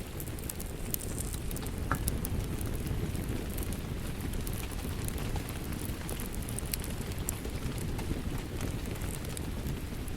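Wood fire crackling, with scattered sharp pops over a steady low rumble of rain.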